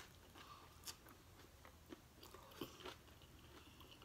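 Faint chewing of a taco, with a few soft crunches and mouth clicks scattered through it.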